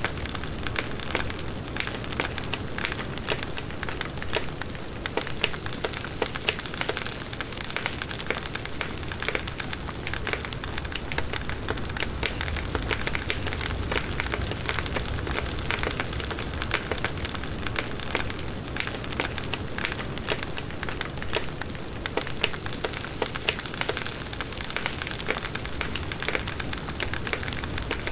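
Wood fire burning steadily, with dense crackling and popping of firewood over a low hiss.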